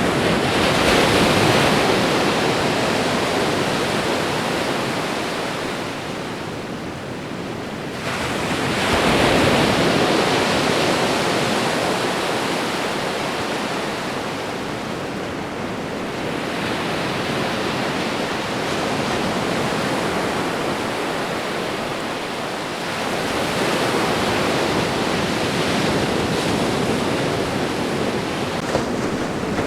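Ocean waves breaking and washing against the shore, a continuous surf rising and falling in swells, with louder waves about eight seconds apart early on and then a steadier wash.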